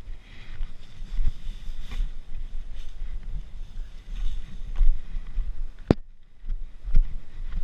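Wind rumbling on the microphone of a camera riding along on a mountain bike, with knocks and rattles as the bike goes over rough ground. A sharp click comes about six seconds in, followed by a brief quieter moment.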